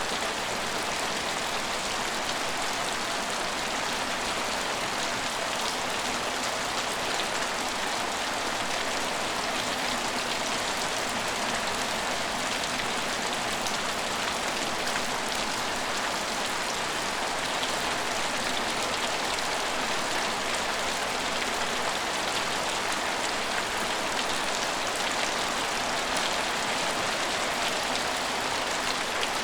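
Steady rain falling and pattering on hard surfaces, an even hiss with fine drop ticks throughout.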